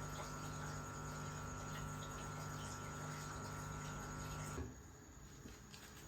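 A steady hum with a faint high whine underneath, both holding one pitch, which cuts off sharply about four and a half seconds in, leaving faint background noise.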